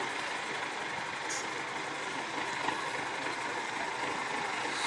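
Off-road trial truck running, with a short hiss of air about a second in.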